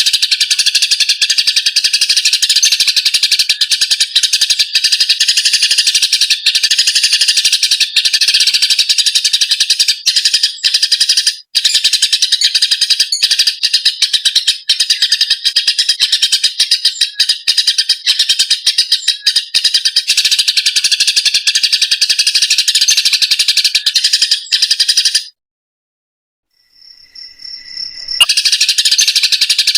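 Eurasian tree sparrows giving fighting calls: a loud, dense, continuous chatter of rapid chirps. It breaks off about 25 seconds in for about three seconds, then resumes.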